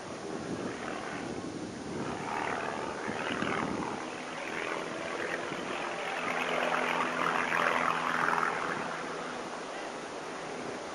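Propeller airplane engine droning steadily under a rushing, hissing noise that swells about six seconds in and then eases off.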